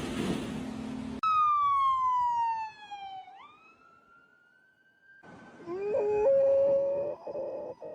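A dog howling in long drawn-out notes: one howl that slides down in pitch and then rises again, then a second that steps up in pitch, holds and cuts off. A second of steady rushing noise comes before them.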